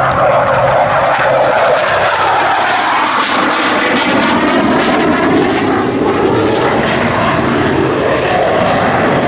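Dassault Super Étendard jets' SNECMA Atar turbojets rushing past in a display flyby: a loud, steady jet roar whose pitch falls a few seconds in as they pass.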